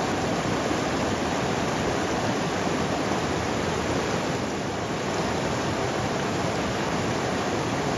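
Steady, loud rush of water, even and unbroken, from the fast-flowing river and the downpour around it.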